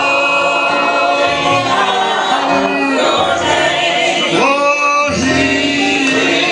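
Gospel invitation hymn sung by a group of voices, long held notes with slides into each note.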